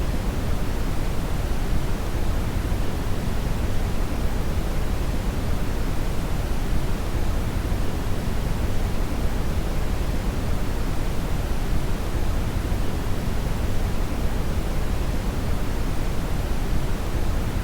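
Brown noise (red noise): a steady, even hiss with most of its weight in the bass, unchanging throughout.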